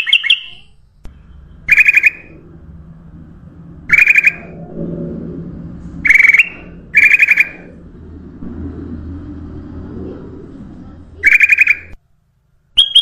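Kutilang emas bulbul calling in six short bursts of rapid chirps, each about half a second long and spaced one to four seconds apart; the last burst falls in pitch. A low, steady background hum runs under them and stops just before the last burst.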